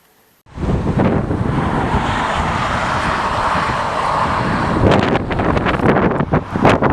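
Wind buffeting an outdoor microphone: a loud, steady roar that starts suddenly about half a second in and turns gusty and crackly in the second half.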